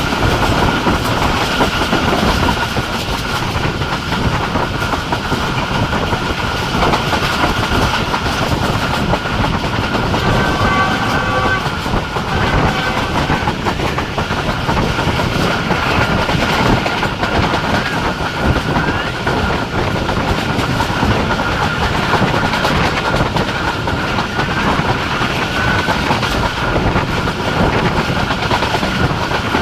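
Passenger express train running at speed, its wheels clattering over the rail joints with a steady high whine throughout. A brief stepped tone sounds about ten seconds in.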